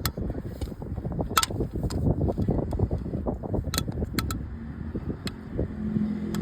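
Irregular clicks and knocks of hand tools and metal parts being worked on a car engine, over a low, uneven rumble. A low steady hum comes in near the end.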